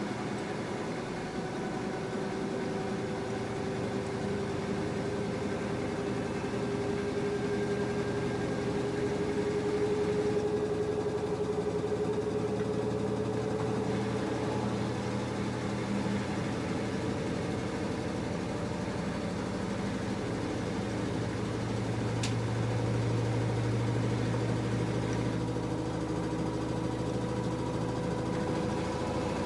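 LG F10A8HDS5 washing machine running, with its motor whine slowly rising in pitch over a steady low hum as the drum spins up.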